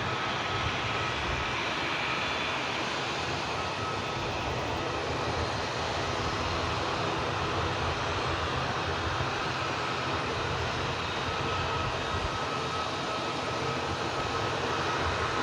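Airliner engines running steadily: a continuous engine noise carrying a faint high whine that comes and goes.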